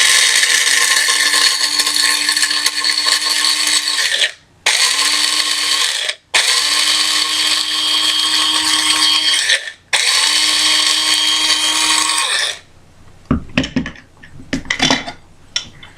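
Krups electric coffee grinder grinding coffee beans, its motor run in four bursts with brief stops between, the pitch rising quickly as each burst starts. The grinding ends about three-quarters of the way through, followed by a few light knocks.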